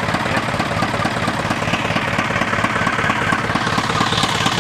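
Isuzu 4HF1 four-cylinder diesel engine idling steadily with a misfire, which the mechanic traces to a defective injector nozzle.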